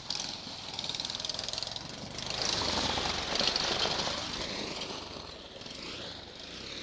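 Small off-road vehicle engine revving hard as it rides past, growing louder for a couple of seconds and then fading away.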